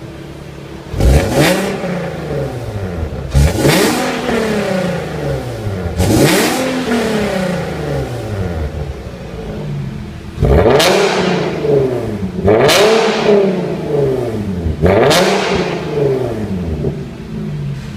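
Nissan 370Z Nismo's 3.7-litre V6 through an Armytrix valved exhaust, idling and then revved in six sharp blips, each rising quickly and falling back to idle.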